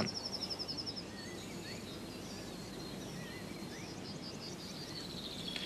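Faint birdsong over a steady low hiss: a quick high trill in the first second, then scattered short chirps, and another faint trill near the end.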